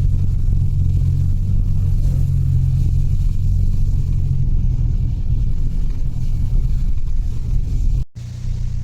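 Steady low rumble of engine and road noise heard inside a moving Mitsubishi Delica's cabin. It cuts out for a moment near the end, then carries on slightly quieter.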